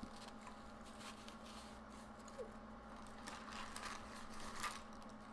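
Faint soft clicks and rustling from handling a soggy sandwich and its wrapper, busier from about three seconds in, over a steady low hum.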